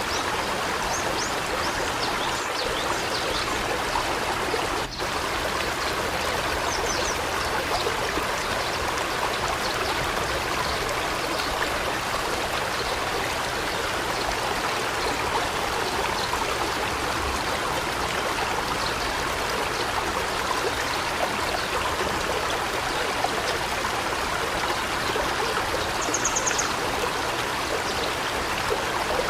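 Steady rushing water in a forest, with a few short high bird chirps near the start, about seven seconds in and near the end. The water sound briefly dips about five seconds in.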